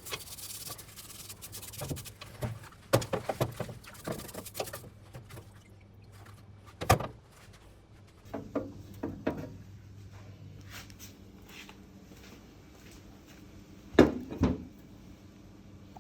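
Engine parts being handled on a workbench: a hissing noise with clicks and knocks for the first few seconds, then scattered single knocks and a louder double knock near the end.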